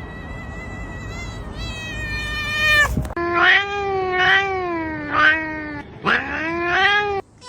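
Domestic cats making odd drawn-out cries. First comes a long, thin, high-pitched cry that falls slightly over about three seconds. Then comes a lower yowl that wavers up and down in pitch, ending with a short rising call.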